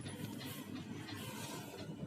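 Steady low rumble with a faint hiss inside the cabin of a coach built on a Mercedes-Benz O500RS 1836 chassis.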